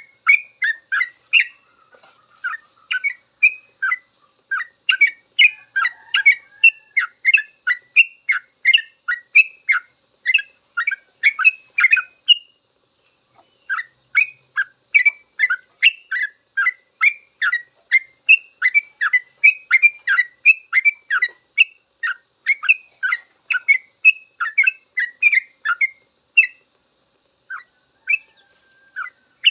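Yellow-vented bulbul singing a long, rapid run of short chattering notes, the continuous "ropel" song. It breaks off briefly about halfway through and again near the end.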